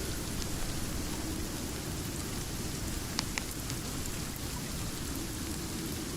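Steady rain, heavy in the low end, with a fireplace crackling in a couple of sharp pops about three seconds in.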